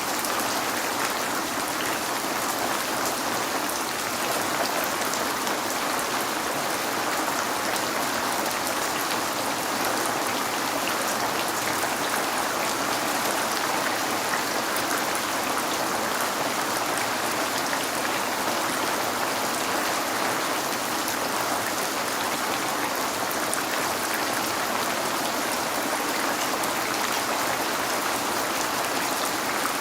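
Steady rain falling on a window: a constant, even hiss with a fine patter of drops, never letting up.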